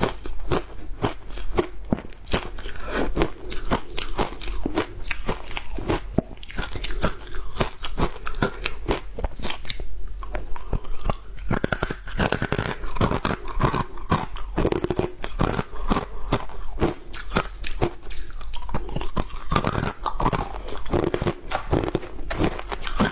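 Ice being bitten and chewed, a fast, unbroken run of sharp crunching cracks.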